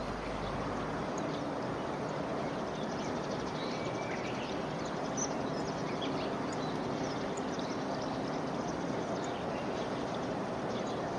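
Steady outdoor background noise, an even rushing hiss, with a few faint, short bird chirps scattered through it.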